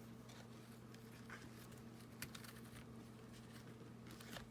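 Faint handling noises of rope being knotted around a cardboard tissue-box journal: scattered soft rustles and light ticks, over a steady low hum.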